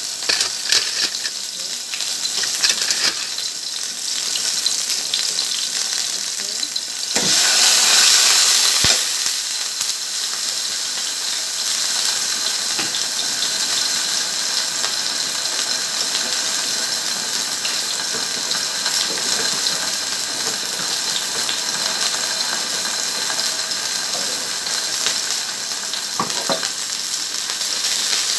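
Marinated chicken breast sizzling as it fries in oil in a nonstick pan: a steady frying hiss that swells louder for about a second and a half some seven seconds in, with a few light clicks.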